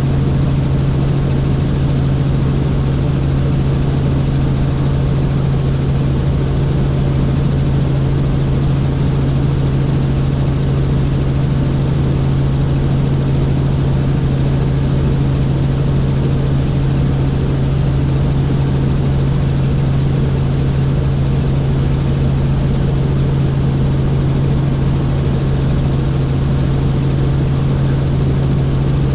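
Helicopter in flight: steady, loud engine and rotor noise with a strong low hum and a thin high whine, unchanging throughout.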